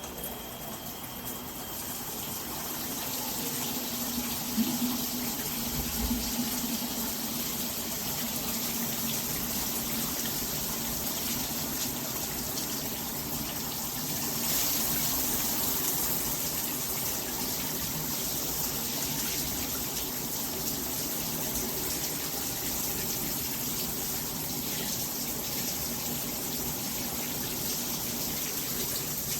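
Water spraying steadily from a G-Promise all-metal shower head, building up over the first few seconds as the flow comes on.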